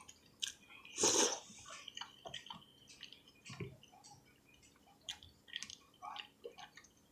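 Close-up chewing and wet mouth sounds of a person eating soup and grilled cheese: a string of small smacks and clicks, with one louder noisy burst about a second in.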